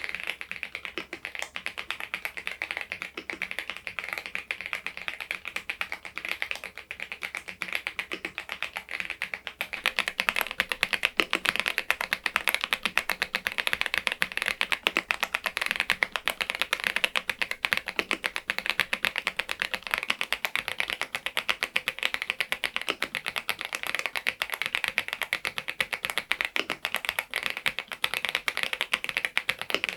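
Continuous typing on an AULA F99MAX mechanical keyboard with Leobog Reaper switches: a fast, steady stream of key clacks that gets louder about ten seconds in.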